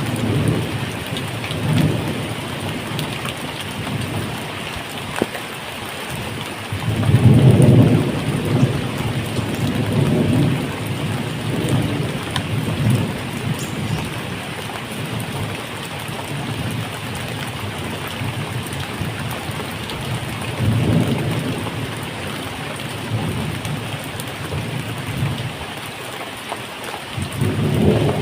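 Steady medium rain falling, with rolls of thunder swelling and fading several times, the loudest rumble a few seconds in.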